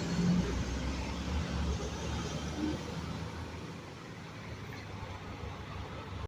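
Semi truck's engine running with a steady low rumble.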